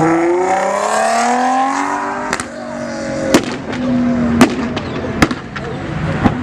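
A car engine pulling hard, its pitch rising for about two seconds. Then the throttle comes off and a string of loud, sharp exhaust bangs follows, roughly one a second: backfire pops of the kind that throw flames from the exhaust.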